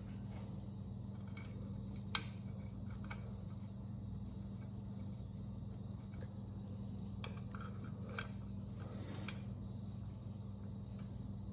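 Sparse metal clicks and clinks of hand tools and bolts as a bell housing is bolted on, with one sharp click about two seconds in and a few lighter ones later, over a steady low hum.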